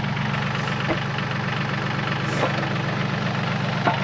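Yanmar YT235C tractor's diesel engine running steadily, with three short knocks about a second and a half apart.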